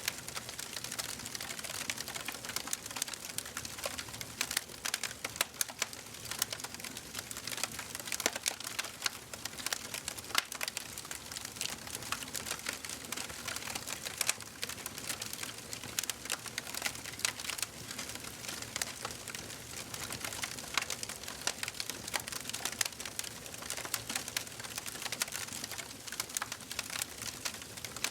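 Wood fire burning in a fireplace, with a constant dense crackling of many small sharp pops over a soft hiss.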